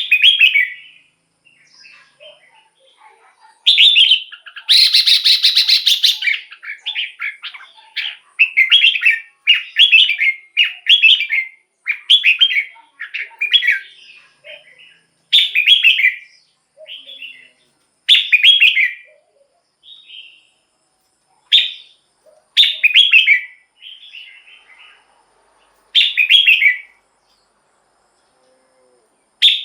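Red-whiskered bulbul singing: a run of short whistled phrases, one every second or two, with a longer, harsher phrase a few seconds in.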